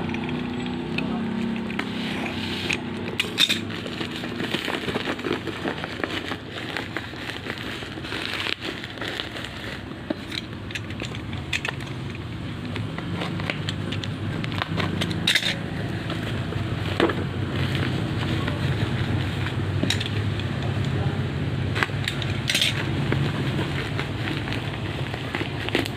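Crackling and crinkling handling noises with scattered sharp clicks, as of a plastic-wrapped parcel being handled and opened, over a steady low hum.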